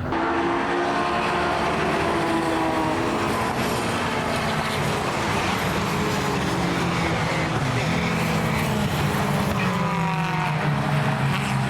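A pack of classic touring racing cars passing at full throttle, several engines heard at once, their pitches rising and falling with throttle and gear changes.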